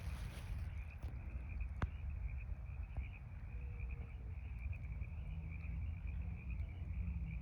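A steady, high-pitched chorus of calling frogs that runs on unbroken, over a low constant rumble, with one sharp click about two seconds in.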